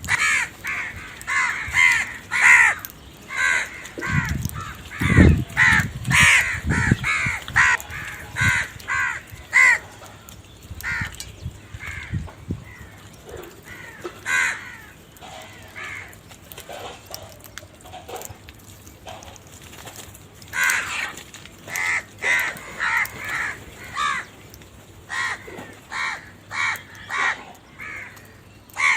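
Crows cawing: loud, harsh caws repeated in quick runs, thinning out in the middle and picking up again after about twenty seconds, with a few low thuds around five seconds in.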